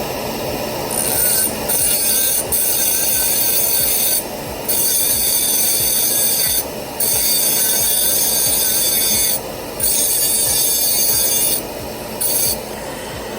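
Rotary grinder cutting a cast non-precious metal dental frame. A harsh, high grinding hiss comes in about six passes of one to two and a half seconds with short breaks between, over a steady background hum.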